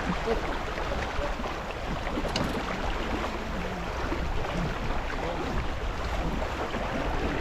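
Steady wind buffeting the microphone over water rushing along the hull of a sailing boat under way.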